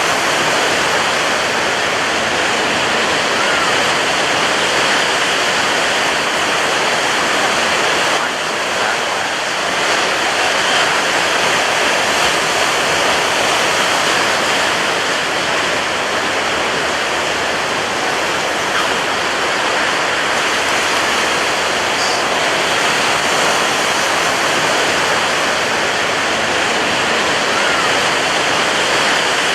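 Ocean surf breaking on a beach, a continuous loud rush of water with no separate breakers standing out, easing slightly for a moment about eight seconds in.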